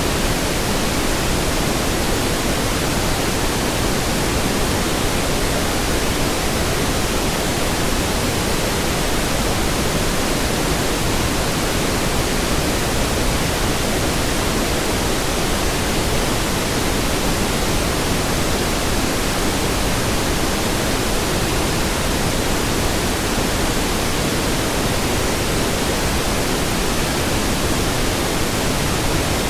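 Steady synthetic pink noise: an even, unchanging hiss spread across the whole range, with no tones, rhythm or breaks.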